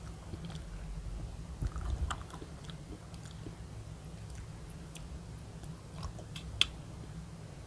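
Close-miked chewing of a soft jelly candy, with scattered small mouth clicks and one sharper click about six and a half seconds in.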